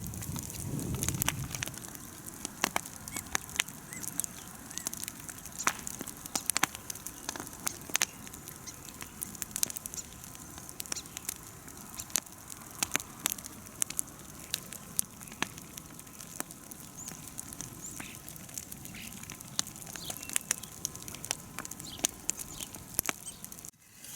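Large bonfire of cut branches and brush crackling, with frequent irregular sharp pops over a steady hiss.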